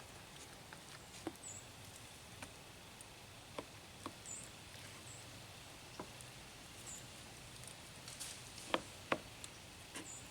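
Knife cutting raw chicken breast into chunks on a cutting board: scattered soft knocks of the blade meeting the board, a second or more apart, with two sharper knocks close together near the end.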